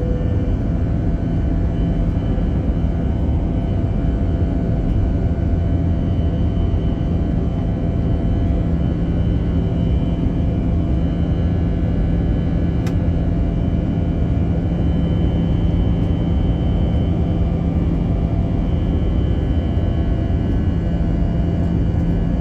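Steady jet engine roar and airflow rumble of an Airbus A321-200 heard from inside the passenger cabin, holding an even pitch throughout with a constant low hum.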